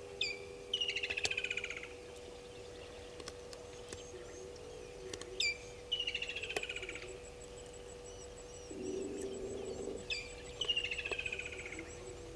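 A wild songbird sings the same phrase three times, about five seconds apart. Each phrase is a sharp downward whistle followed by a fast trill that falls in pitch. A steady low hum runs underneath.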